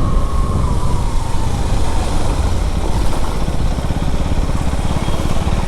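KTM Duke 390's single-cylinder engine running on the move, with a steady low rumble. A faint whine eases down in pitch over the first second or two as the revs drop.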